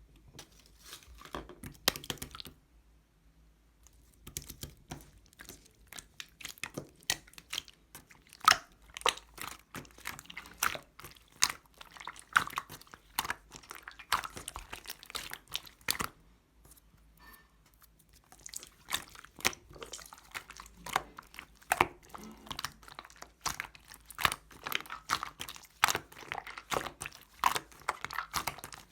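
Clear slime being squished and worked by hand, a dense run of sticky pops and clicks that stops briefly twice.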